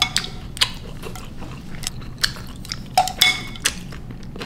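Close-miked chewing of soft ramen noodles in broth, with wet mouth smacks and a scatter of sharp clicks, several bunched together about three seconds in.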